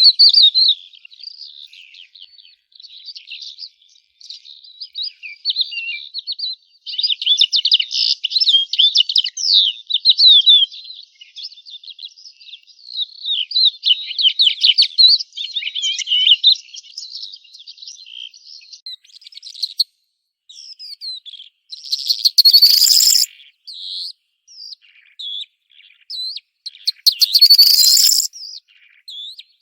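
Small songbirds chirping and twittering continuously in quick, high notes, with two louder, harsher bursts of chatter about two-thirds of the way through and again near the end.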